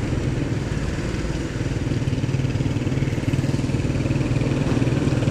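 Motorcycle engine running steadily while riding, getting slightly louder.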